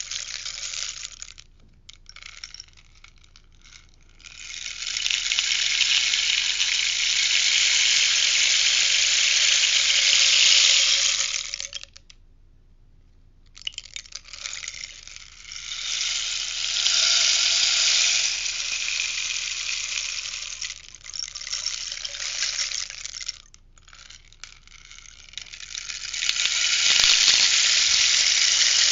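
Rainstick being tipped back and forth: pebbles cascading through it in a long, even hiss that swells and fades, with short pauses each time it is turned over, about three pours in all.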